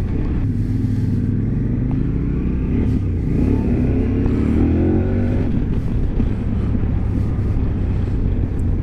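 KTM 1290 Super Adventure's V-twin engine running under way on a ride, with a steady low rumble; the engine note rises for a couple of seconds about three to five seconds in as the bike accelerates.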